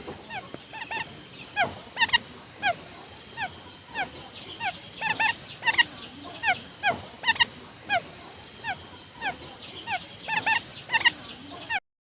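Quail calling: short, falling whistled notes repeated steadily, singly and in quick pairs and triples, as used for a lure call. The calling stops suddenly near the end.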